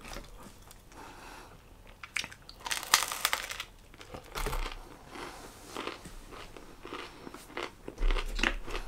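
A man chewing a mouthful of spicy chicken chunk close to the microphone, with irregular crunching bites, the loudest about three seconds in.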